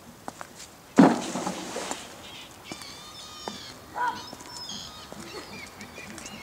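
A sudden loud burst of noise about a second in, lasting about a second, followed by several short bird calls at different pitches, some gliding.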